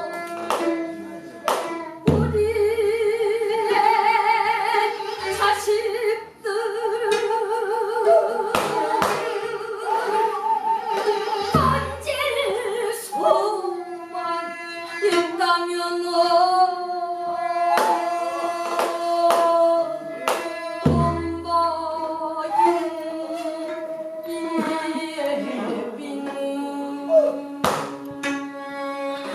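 Pansori singing in long, wavering held notes, accompanied by a buk barrel drum that gives a few deep strokes and sharp clicks.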